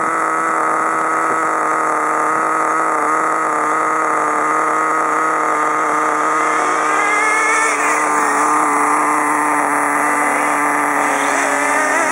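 Small nitro RC engines running at a steady high idle, with a higher engine note rising briefly about seven to eight seconds in and again near the end.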